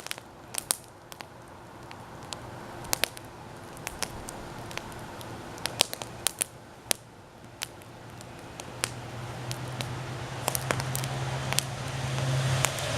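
Wood campfire crackling, with sharp irregular pops. In the second half a low steady hum comes in and grows louder.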